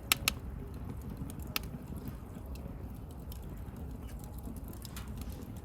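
Wood bonfire burning, crackling and popping: two sharp pops just after the start and another about a second and a half in, with smaller irregular ticks over a low steady rush of flames.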